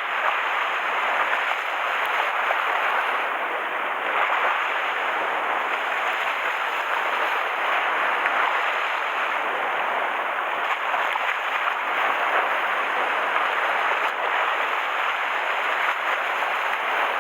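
A steady rush of rough, typhoon-stirred sea waves, with no single crash standing out.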